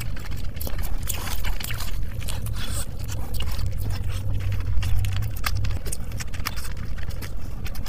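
Close-miked chewing and biting of curried rice and a chicken leg eaten by hand: many quick wet clicks and smacks from the mouth, over a steady low rumble.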